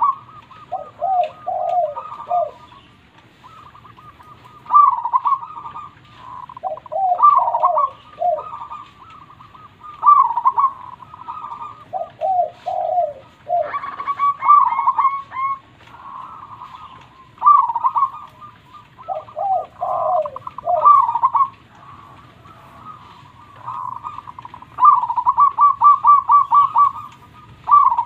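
Zebra dove (perkutut) cooing: repeated phrases of quick rolling notes, some dropping to lower notes at the end, every two to three seconds.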